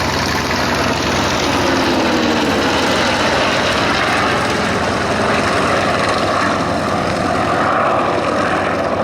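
A Vought Corsair's radial piston engine and propeller droning steadily as the fighter flies its display, growing a little louder late on as it passes.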